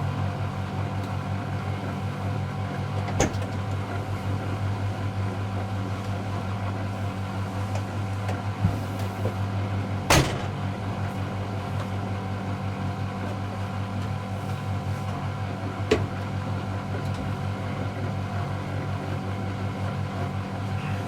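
Miele Novotronic W715 washing machine running with a steady low hum, with a few sharp knocks from inside it, the loudest about ten seconds in.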